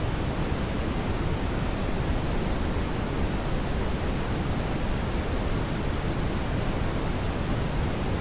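Steady brown noise: an even, deep rushing hiss, heaviest in the low end, with no change.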